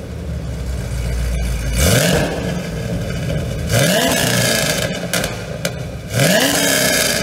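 Supercharged 6.2-litre V8 of a 2014 Chevrolet Camaro ZL1 revved three times, each rev a rising sweep in pitch.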